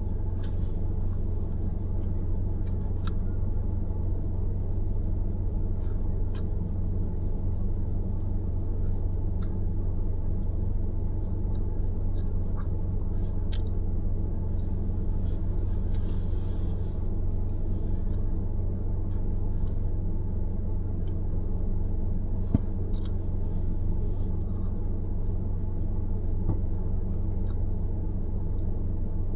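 Steady low rumble of a car driving, road and engine noise, with a few faint ticks, a brief hiss about fifteen seconds in and a single sharp click a little past twenty seconds.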